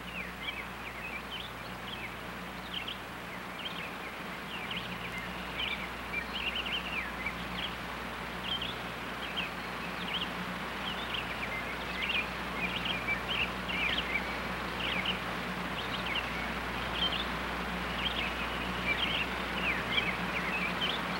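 Small birds chirping over and over in short calls, over a steady low hum.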